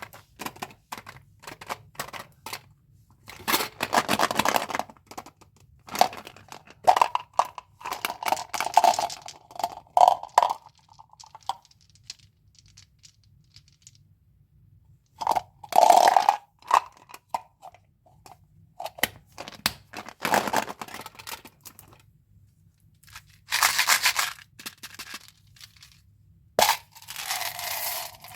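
Mentos candy packaging handled and opened by hand: wrappers crinkling and tearing in repeated bursts of a second or two, with many sharp clicks and quieter gaps between.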